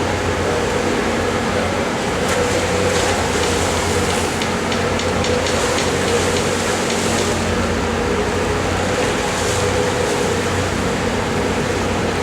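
Fast Cat catamaran ferry's engines running with a steady, even hum and constant low drone as the boat comes in to dock. Faint light ticking is heard partway through.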